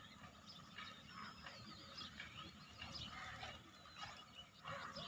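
Faint outdoor ambience with scattered bird chirps and short whistled calls over a low background hum.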